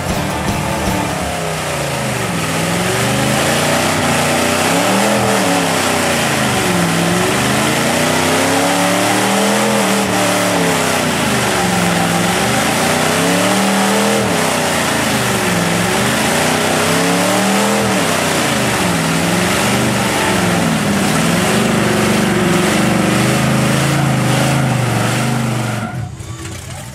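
Truck engine revving hard, its pitch rising and falling over and over, roughly every two seconds, then fading out at the very end.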